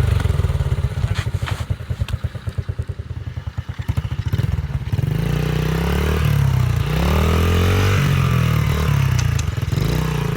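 Baja Motorsports 49cc dirt bike engine, its exhaust holed, idling low and uneven with the firing pulses showing clearly for the first few seconds. From about halfway it revs up and down several times.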